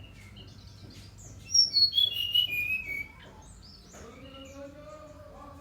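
Brown-chested jungle flycatcher singing: a loud phrase of clear whistled notes stepping down in pitch, starting about a second and a half in, among softer scattered chirps.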